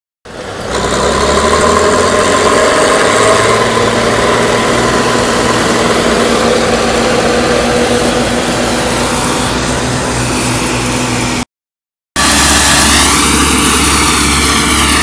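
Farm machinery engines running steadily, as two separate recordings with a brief silent break about eleven and a half seconds in.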